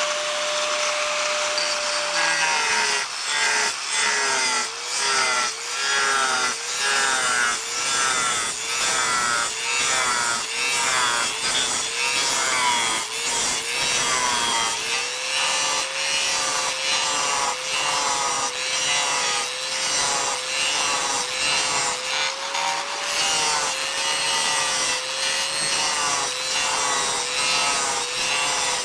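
Makita 4-inch angle grinder with a dry-cutting diamond blade, running free at first and then grinding into porcelain tile in repeated up-and-down plunges; the motor pitch dips under load about three times every two seconds. About halfway through, the strokes smooth out and the motor holds a steadier pitch with only small wobbles.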